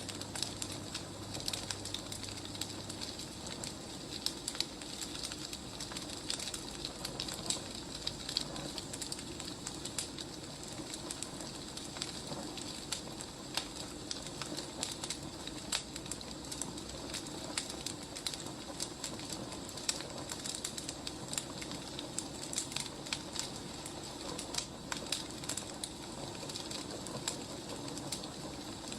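Burning firewood crackling steadily, with irregular sharp crackles over a soft hiss.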